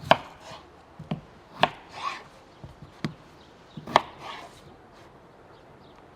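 A knife chopping on a wooden cutting board: about five sharp chops at irregular spacing, with softer sounds between them.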